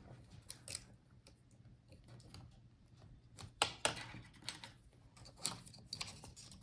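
Light, scattered plastic clicks and taps from handling as the laptop speakers and their cable are pulled out of the chassis, with a cluster of clicks a little past the middle.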